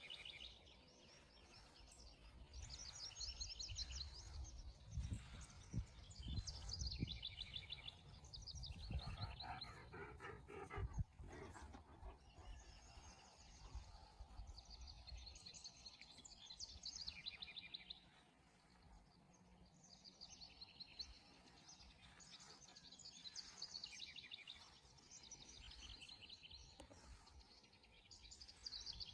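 Songbirds singing outdoors: short, fast trilled phrases repeat every few seconds throughout, from more than one bird. A low rumble of outdoor noise runs underneath for the first half, with a single soft knock about eleven seconds in.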